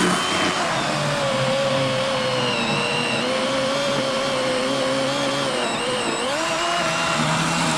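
Worx WG384 40-volt battery electric chainsaw with an 18-inch Oregon bar and chain, running steadily as it cuts through a large fallen log. Its motor whine wavers slightly in pitch as the chain takes the load.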